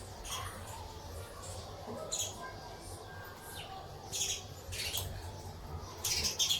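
Sparrows chirping: short, high chirps every second or so, with a louder cluster near the end, over a steady low background rumble.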